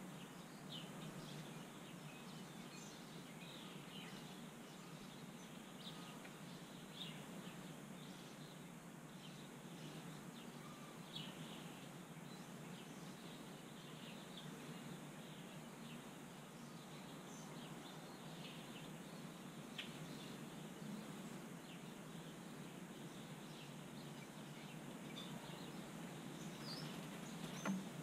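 Faint, scattered bird chirps over a steady outdoor hiss, with a brief sharp knock near the end as a bird lands on the wooden deck rail.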